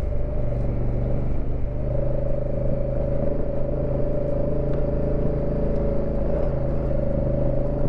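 Honda Africa Twin CRF1000L's parallel-twin engine running at a steady throttle while riding a dirt trail, with wind and tyre noise mixed in.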